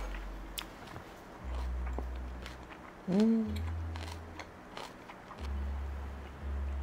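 Close-miked chewing and mouth sounds of someone eating noodles, with small wet clicks throughout. About three seconds in there is a short hummed "mm" that rises and then holds.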